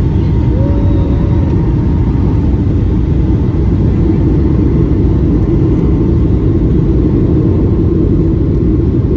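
Steady cabin roar inside a Boeing 757-200 in flight: jet engine and airflow noise, low and even.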